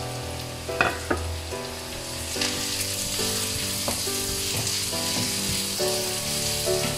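Sliced onions, green chillies, garlic cloves and curry leaves sizzling in hot oil in a non-stick wok, being sautéed toward golden, while a wooden spoon stirs them with a few sharp taps against the pan. The sizzle grows louder about two and a half seconds in.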